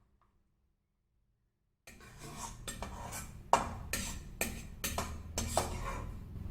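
Silence for about two seconds, then a spoon repeatedly knocking, clinking and scraping against a baking dish, about two strikes a second, while butter chicken filling is spread over a lasagna layer.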